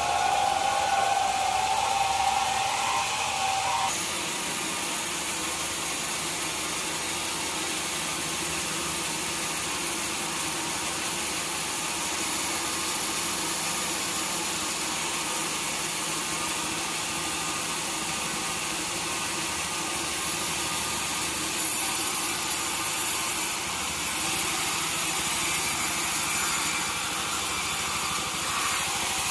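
Sawmill machinery running: a motor's pitch rises over the first few seconds, then after an abrupt change a saw runs steadily through wood, growing brighter and a little louder about three-quarters of the way through.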